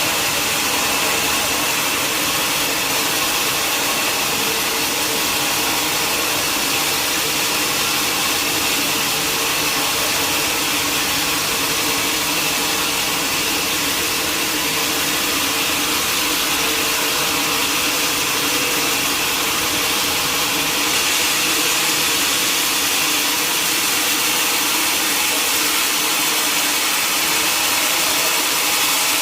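Sawmill machinery running steadily, a constant mechanical whine over broad noise with no breaks or knocks.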